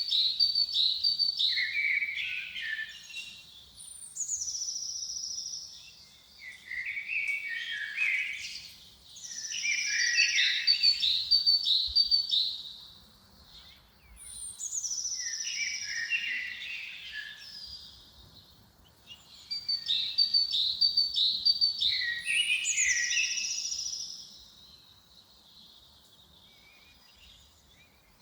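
Songbirds singing: bursts of rapid chirps, trills and falling whistled notes repeat in phrases every few seconds. The song stops for the last few seconds.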